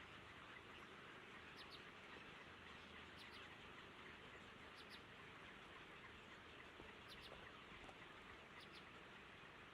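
Faint, high bird chirps in short groups of two or three quick notes, recurring every second or two over a steady background hiss.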